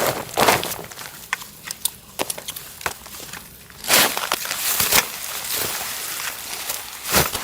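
Crunching in snow: irregular crunches and sharp snaps, with louder crunches about four, five and seven seconds in.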